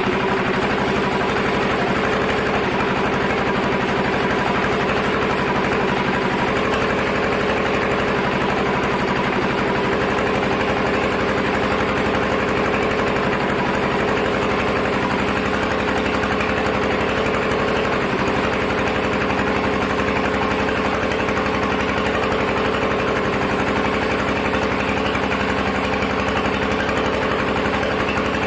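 Sawmill machinery running steadily, a constant engine-like hum that holds one pitch throughout.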